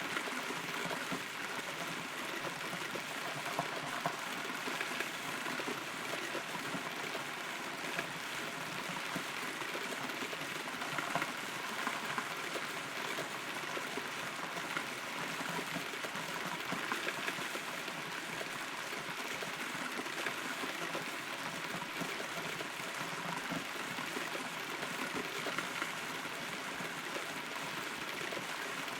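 Steady rain heard from inside a hollow rotten tree trunk: a continuous patter with frequent small, sharper drop hits.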